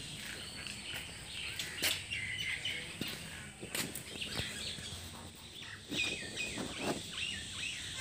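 Small birds chirping in short repeated calls, with a few scattered faint clicks.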